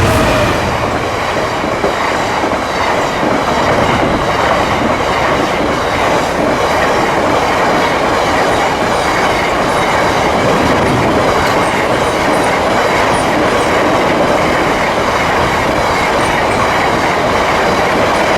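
Freight train hauled by a Class 66 diesel locomotive passing close by at the level crossing. The wagons' wheels on the rails make a loud, steady, continuous noise with faint repeated clicks.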